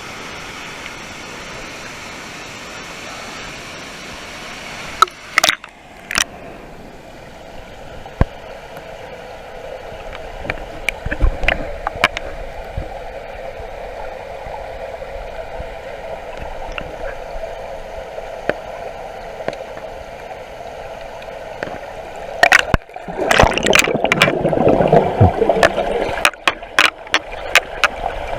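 Water in a waterfall pool swirling and gurgling, with a steady rush throughout. There are a few sharp knocks about five seconds in, and a louder stretch of splashing and gurgling near the end.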